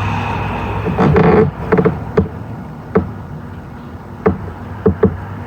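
Tools and parts knocking and clicking against metal in an engine bay: a short rattling burst about a second in, then single sharp knocks every half second to a second, over a steady low hum.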